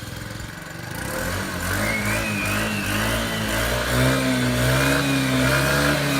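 An engine running, rising in pitch and loudness over the first couple of seconds, then holding steady with a slight waver.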